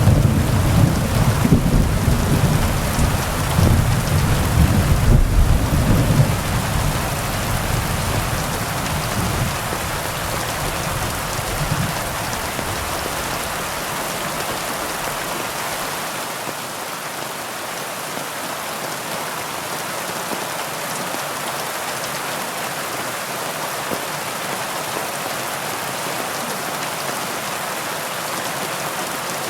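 Steady heavy rain hissing, with a low rumble of thunder under it that rolls on for the first several seconds and dies away after about ten seconds, leaving only the rain.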